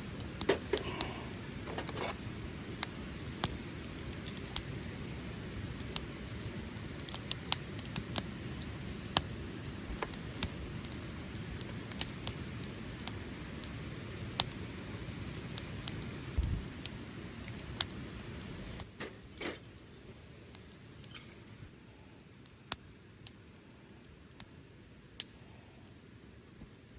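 Scattered sharp clicks and light knocks, irregularly spaced, over a steady low rumble that drops quieter about two-thirds of the way through.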